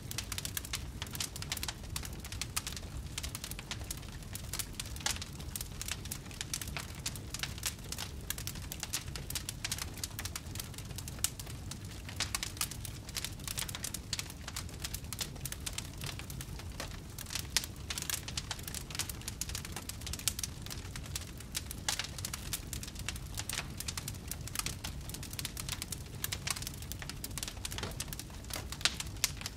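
Campfire burning with dense, irregular crackling and popping over a low steady rumble of the flames.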